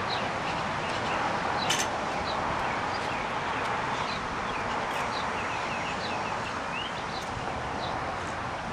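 Small birds chirping repeatedly in short, high calls, including a quick run of rising chirps near the end, over a steady rushing background noise. A single sharp click sounds about two seconds in.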